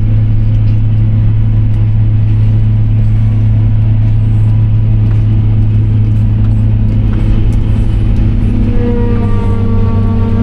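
Tractor engine running at a steady load, heard as a loud constant low drone from inside the cab. From about nine seconds in, a steady multi-toned whine joins the drone.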